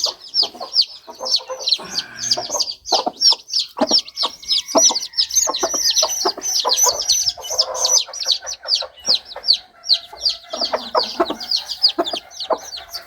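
Newly hatched chicks peeping without a break in short, high, falling cheeps, about three or four a second. Under them a hen clucks low, with scattered knocks.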